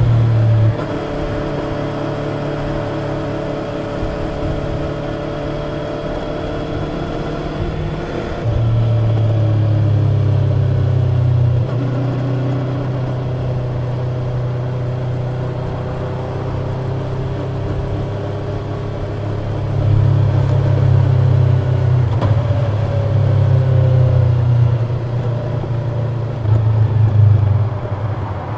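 Yamaha YZF-R25's parallel-twin engine through its stock exhaust, pulling under way with the pitch gently rising and falling. The exhaust swells louder three times as the throttle is opened, about eight seconds in, around twenty seconds in, and near the end, and settles back between.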